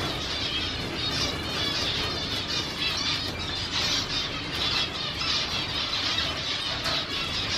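A large flock of caged finches chattering: many short, high chirps overlapping continuously.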